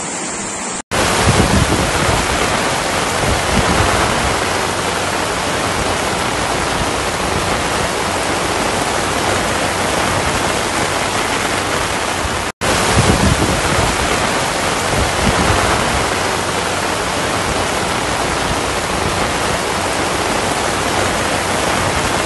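Heavy rain pouring down, heard from under an umbrella: a loud, steady hiss. It cuts out for an instant twice, about a second in and again near the middle. The first second is floodwater rushing over a wall.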